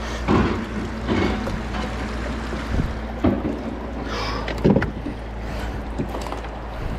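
River water rushing steadily, with several sudden splashes as a capsized kayaker scrambles in the current to recover himself and his gear.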